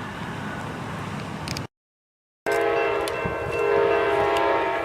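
Locomotive air horn sounding one long, steady multi-tone blast, after a short steady rumbling noise and an abrupt cut to silence.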